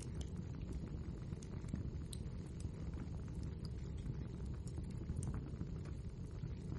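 Wood fire burning in a fireplace: a steady low rumble from the flames, with frequent small, sharp crackles and pops from the burning logs.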